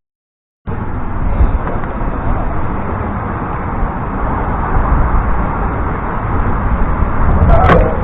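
Steady rushing wind and road noise from riding along on a bicycle, cutting out completely for most of the first second. A brief sharp sound near the end.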